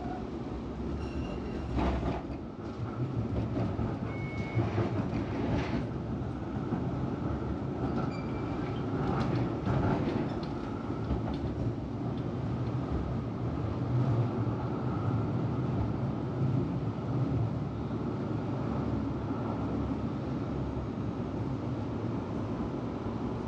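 Tram running along its tracks between stops, heard from inside the car: a steady rumble and hum of the wheels and motors, with occasional knocks and a few brief high squeals from the wheels on the rails.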